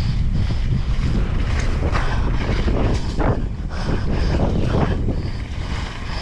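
Strong wind buffeting the microphone during a mountain bike descent: a loud, steady low rumble.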